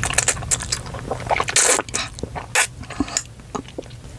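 Close-miked eating of spicy instant ramen noodles: wet mouth clicks and chewing, with a couple of short slurps in the middle.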